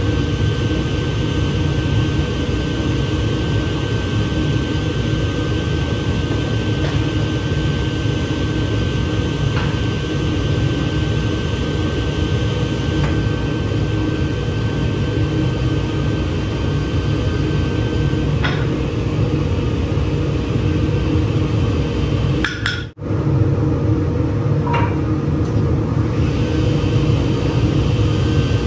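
A woodworking power machine running steadily, with a deep rumble and a steady hum, and a few faint ticks. The sound cuts out for an instant a little before the end and then resumes.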